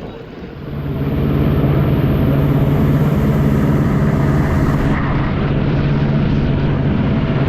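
Jet ski engine running at steady high revs, swelling in about a second in and then holding an even pitch.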